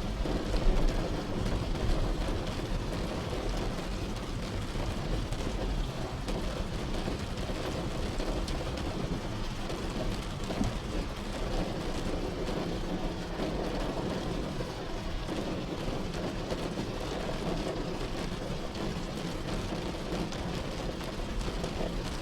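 Steady rain falling on a car's roof, heard from inside the car, over a continuous deep low rumble.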